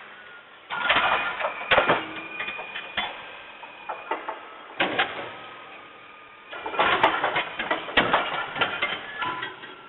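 Garbage truck machinery clattering and knocking in two long bursts, with a thin whining tone running through them.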